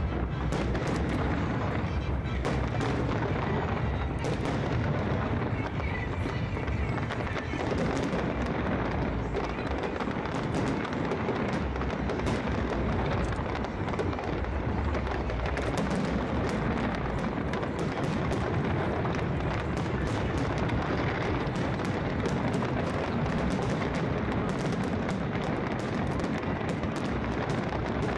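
Aerial fireworks display: bangs and crackling shells bursting in quick succession with no pause, over a continuous rumble.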